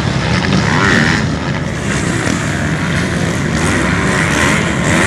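Several motocross bikes' engines running at once, their pitch rising and falling as they rev, overlapping one another.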